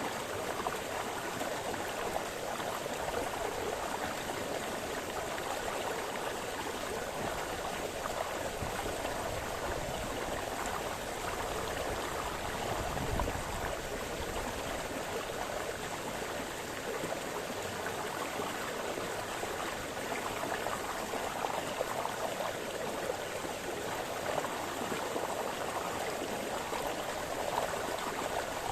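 A small brook splashing and babbling steadily over stones.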